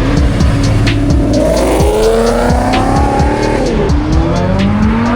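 Car engines revving, their pitch rising and falling, with tyre squeal, under music with a steady beat.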